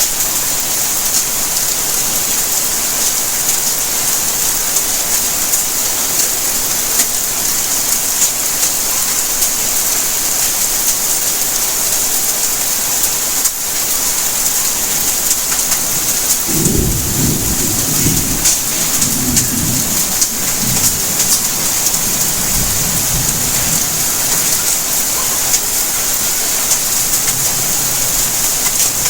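Steady rainfall hissing, with a low roll of thunder a little past the middle that rumbles in several surges for about seven seconds before fading back into the rain.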